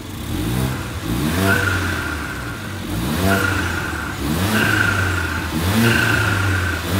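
Mercedes-AMG CLA45's turbocharged 2.0-litre four-cylinder revved in about five quick throttle blips, each rising fast and held briefly, with a high whine over every held rev. The engine breathes through its stock air filter and cover: the baseline intake sound before a K&N filter is fitted.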